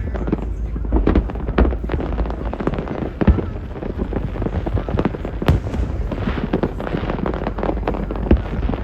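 Fireworks display going off: a dense, unbroken run of bangs and crackles, many per second.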